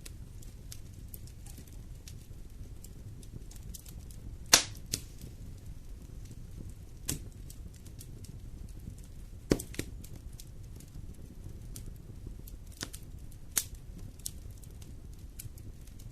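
Wood fire burning in a fireplace, crackling with scattered small snaps over a low steady rumble of flames, and a few sharper pops from the burning logs, the loudest about four and a half seconds in and another near nine and a half seconds.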